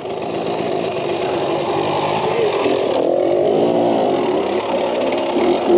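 KTM 300 XC-W two-stroke dirt bike engine idling, while another dirt bike rides past; the passing engine's pitch rises and falls around the middle.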